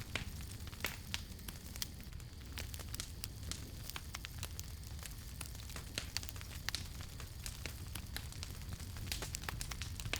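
Wood fire crackling and popping: irregular sharp snaps, several a second, over a steady low rumble of the flames.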